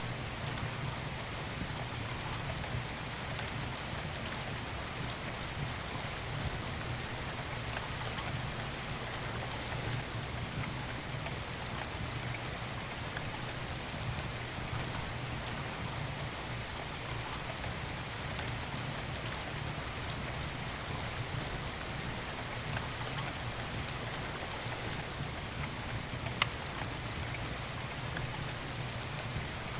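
Steady rain falling on a surface, mixed with the occasional crackle of a wood fire in a fireplace, with one sharp pop near the end.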